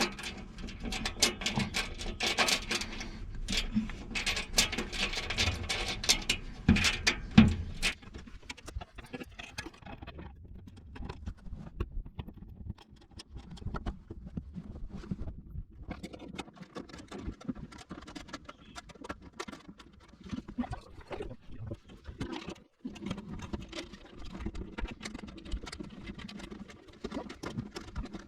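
Rapid clicking, tapping and light knocks of hand tools, bolts and washers as a shelf is bolted up into rivet nuts in a vehicle's roof. The sounds come thick and loud for the first eight seconds, then sparser.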